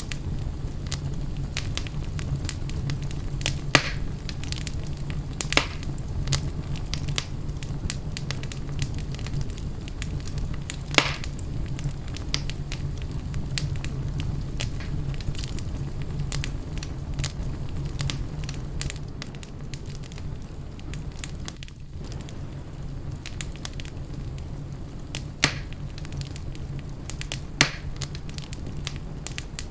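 Fireplace fire crackling: a steady low rumble of the flames with sharp pops every few seconds, the loudest about 11 s in.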